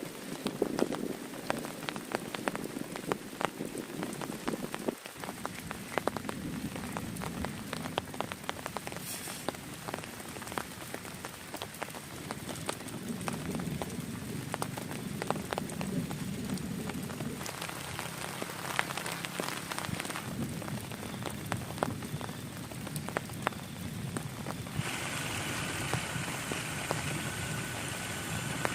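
Heavy rain falling, with many separate drops striking close by as quick sharp taps over a steady hiss. About 25 seconds in, a brighter, hissier wash of rain joins in and stays.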